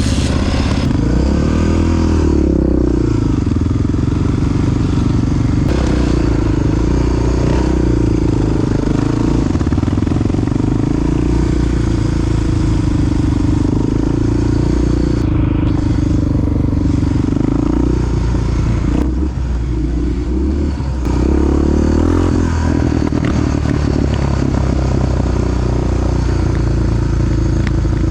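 Big single-cylinder four-stroke engine of a Honda XR dual-sport motorcycle being ridden at a steady pace. It eases off for a couple of seconds about two-thirds of the way through, then pulls steadily again.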